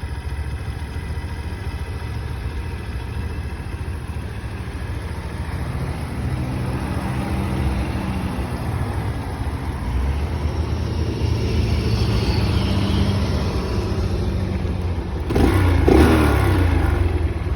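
Grom clone mini motorcycle's small single-cylinder engine running on the move, its pitch shifting as it speeds up and changes gear, with a louder rushing patch about fifteen seconds in.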